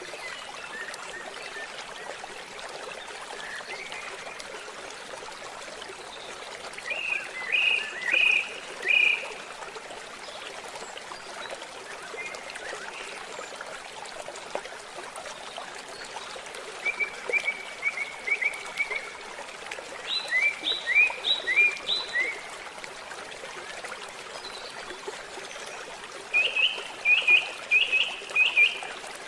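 Steady trickling of a forest stream, with birds calling in short bursts of four or five quick repeated notes, heard four times, plus one faster trill just before the middle.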